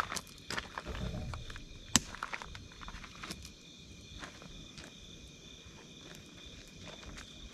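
Wood campfire crackling, with scattered pops and one sharp pop about two seconds in, over a steady chorus of night insects.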